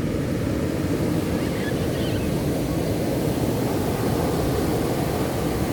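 Ocean surf washing onto the beach, a steady low rush of breaking waves.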